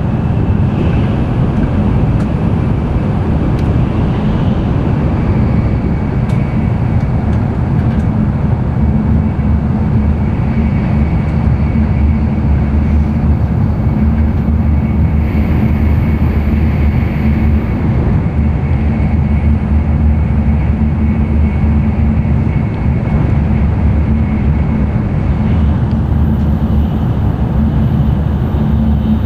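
Running noise heard inside the cabin of an N700-series Tokaido Shinkansen train at speed: a steady low rumble of wheels and air with a faint high-pitched tone over it.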